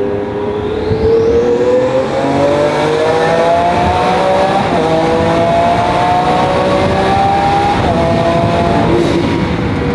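Twin-turbocharged Lamborghini Aventador S V12 accelerating hard through a tunnel, its engine note climbing steadily in pitch for most of the stretch, then dipping once near the end.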